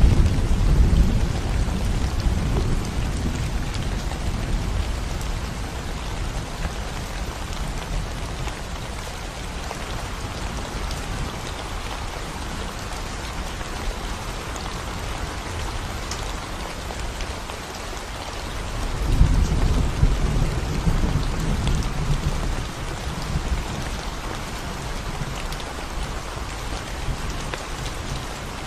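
Steady rain falling on a concrete road and the plants around it, an even patter throughout. A low rolling rumble fades over the first several seconds, and another swells about 19 seconds in and dies away a few seconds later.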